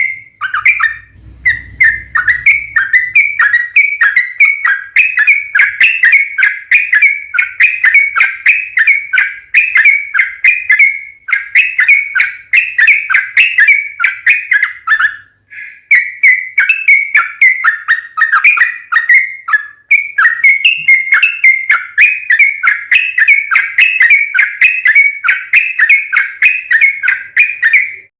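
Yellow-vented bulbul (trucukan) singing a long, fast, unbroken run of chirping notes, about three or four a second, the lively 'gacor' song used as a lure call. The song breaks briefly about 15 seconds in.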